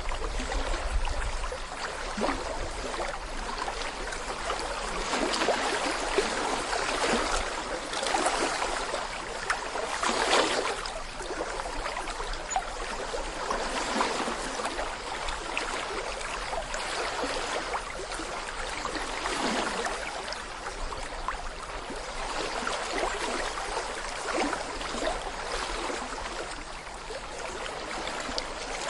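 Shallow brook running over stones: a steady babble of small splashes and gurgles.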